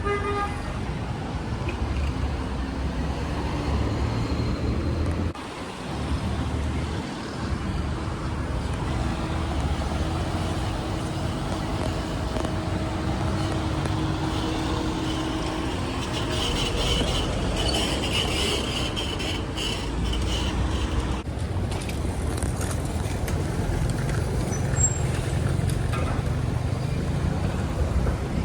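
Street traffic: motor vehicles running and passing on a busy city road, a steady low rumble with engine tones rising and fading.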